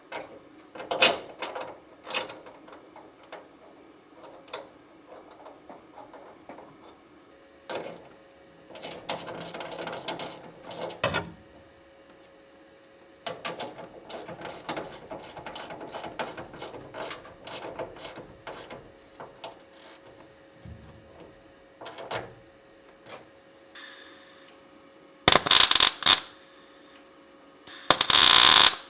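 Metal bodywork with hand tools: scattered clicks, taps and knocks, with stretches of scraping or rubbing. Near the end come two loud bursts of noise of about a second each.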